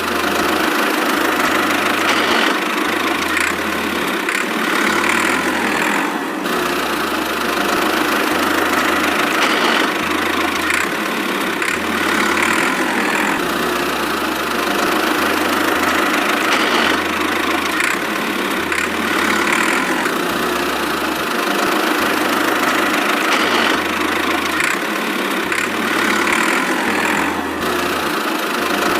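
Mini tractor's small engine running steadily.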